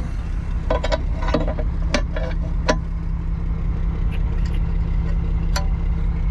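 Truck engine idling steadily, with a few sharp metallic clinks and knocks in the first three seconds and one more click later.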